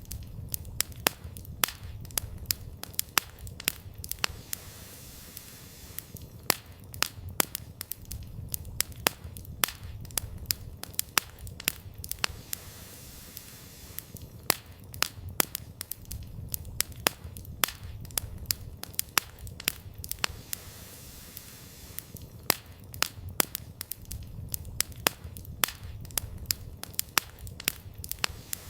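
Wood campfire burning, with frequent irregular sharp crackles and pops of the firewood over a low rumble that swells and fades every several seconds.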